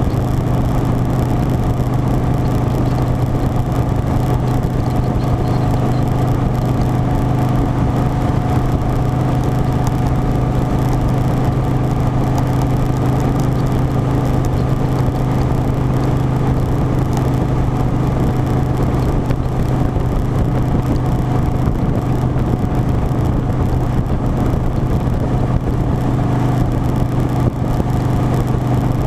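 Harley-Davidson Softail Standard's V-twin engine running steadily at a constant pitch, the motorcycle holding an even cruising speed.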